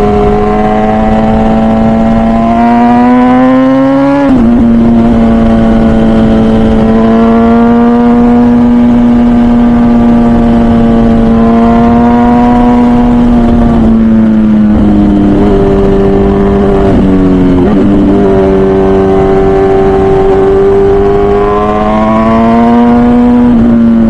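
MV Agusta Brutale 1000RR Nurburgring's 998cc inline-four engine through its full titanium Arrow exhaust, heard from onboard while riding. The engine note climbs, then drops sharply on an upshift about four seconds in and holds steady. It falls off with a few dips and blips past the middle, then climbs again near the end.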